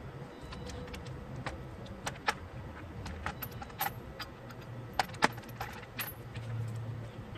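Scattered metallic clinks and clatter of hand tools and engine parts being handled, with two sharp knocks a little after the middle and a low steady hum underneath.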